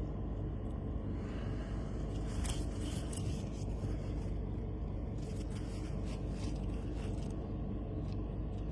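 Nickel Plate train rumbling steadily, heard through a window from inside the house, with a few faint clicks.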